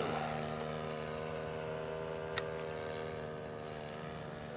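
Model airplane's 91-size glow engine droning steadily in flight, its propeller noise slowly fading as the RC Hawker Hurricane climbs away after takeoff. A single brief click about halfway through.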